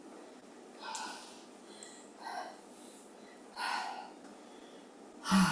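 A woman breathing hard through the mouth after an exercise set: four heavy breaths a little over a second apart, the last one loudest and half-voiced, like a sigh, as she catches her breath.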